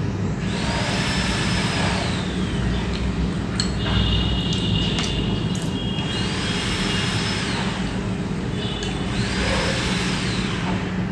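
Machine noise: a steady low hum with three long whooshing surges of about two seconds each, a few seconds apart, and a few short clicks in between. It is an outside noise that began when the meal started and ran on through it.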